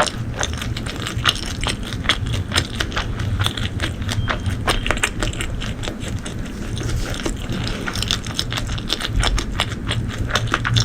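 A person chewing food close to the microphone: a run of irregular wet mouth clicks and crunches.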